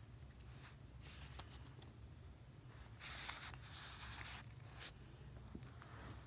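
A hamster nibbling: faint, dry scratchy crunching in short bursts with small clicks, the longest burst about three seconds in.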